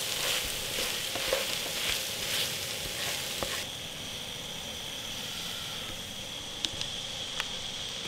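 Chicken gizzards in a spicy sauce sizzling in a frying pan as a wooden spatula stirs and scrapes them. About three and a half seconds in the sizzling drops away, leaving a quieter steady high drone and a few light clicks.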